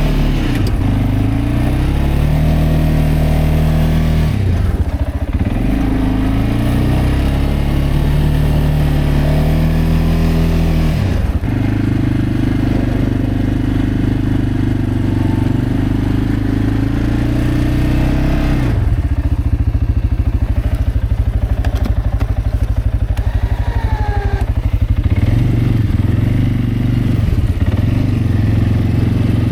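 CFMoto CForce 520L ATV's single-cylinder engine running under load while plowing snow, revving up and dropping back several times as the throttle changes.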